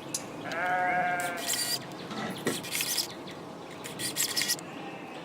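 Drill driving a screw into the wooden case, its motor whining steadily for about a second. High bird chirps come and go in the background.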